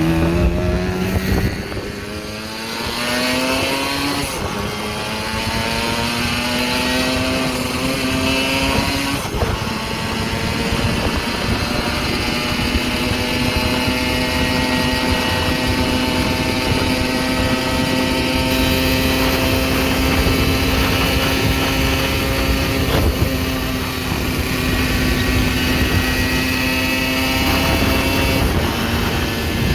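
Tomos 14M 60 cc five-speed two-stroke moped engine running loudly under throttle. Its pitch climbs, dips as it shifts up about four and nine seconds in, then holds steady, and eases off near the end.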